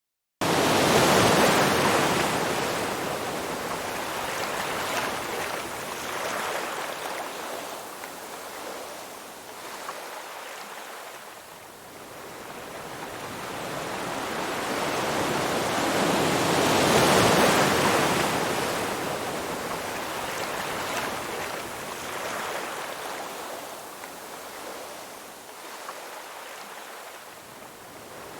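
Ocean surf: waves breaking and washing in, swelling and fading slowly over several seconds, loudest about a second in and again past the middle.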